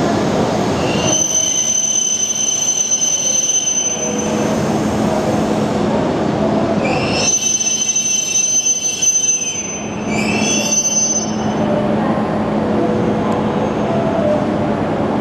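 Tohoku Shinkansen train moving slowly along the platform, with high-pitched metallic squealing in three spells, starting about a second in, around seven seconds and around ten seconds, over a steady running hum.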